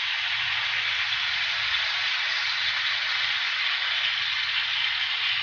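Hot oil in a wok sizzling in a steady hiss as canned tuna and its liquid are tipped in.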